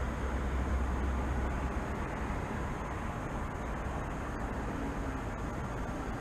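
Steady hum of city traffic: a continuous noisy wash with a heavy low rumble that eases about two seconds in.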